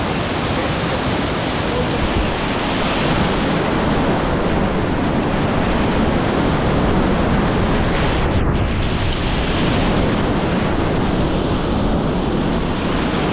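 Whitewater rapids rushing steadily around a kayak, with wind buffeting the camera's microphone; the hiss is briefly muffled about eight seconds in.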